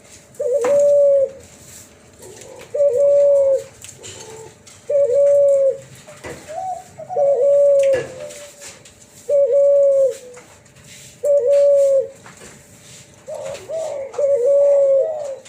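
F1 hybrid dove (spotted dove crossed with ringneck dove, a 'cuhu Kelantan') cooing in a clear, flute-like voice: a run of even, sustained coos about every two seconds, the last phrase near the end rougher and more broken.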